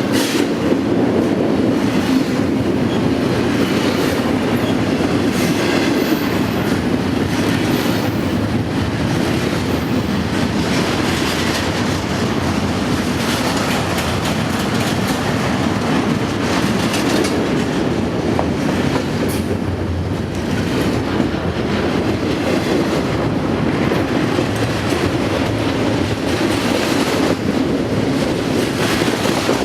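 A train rolling past close by, its cars giving a steady run of wheel-on-rail noise with occasional clicks at the rail joints.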